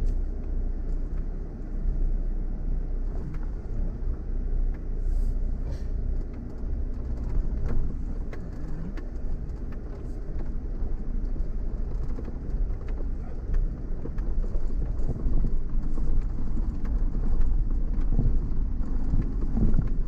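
Off-road vehicle driving slowly over a rough, rocky track: a steady low engine and tyre rumble, with frequent short knocks and rattles from stones and the suspension.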